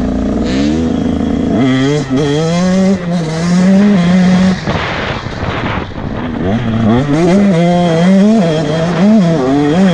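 Motocross bike engine revving hard, its pitch repeatedly climbing and dropping as the rider works the throttle and gears. About halfway through, the engine tone gives way for a second or so to rushing noise, then returns.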